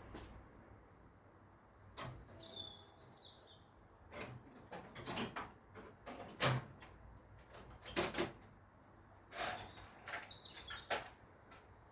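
Irregular metallic clicks and knocks of a socket wrench being fitted to and worked on a motorcycle exhaust fastener, with a short chirping squeak about two seconds in.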